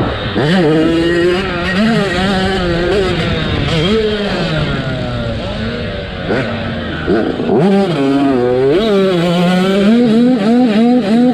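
Motocross dirt bike engine revving hard under race load, its pitch climbing and dropping again and again as the throttle and gears are worked. Near the end the revs surge up and down in quick regular pulses, about three a second.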